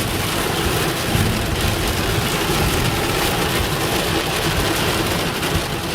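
Heavy thunderstorm rain beating steadily on a van's roof and windows, an even rushing hiss with no break.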